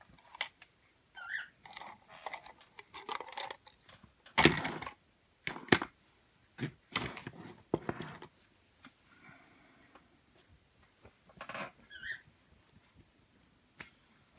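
Small clicks, taps and rustles from handling Play-Doh and its plastic pots and tools, the loudest a scraping rustle about four and a half seconds in. Twice, once near the start and once near the end, there is a short high chirp.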